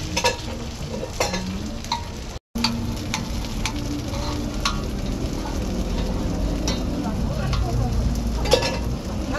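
Korean vegetable pancake frying in oil on a hot pot-lid griddle, a steady sizzle with sharp clicks and pops scattered through it. The sound cuts out for a moment about two and a half seconds in.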